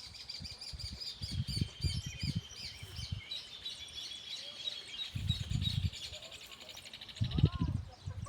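Wild birds singing and chirping, with several songs overlapping, including a long rapid trill that stops near the end. Irregular low rumbling thumps run underneath and are loudest near the end.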